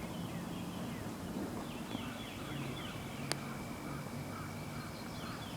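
Birds calling: runs of short, quick, falling chirps repeated several times, with other short calls later, over a faint steady high tone and low background hum. A single sharp click comes a little past the middle.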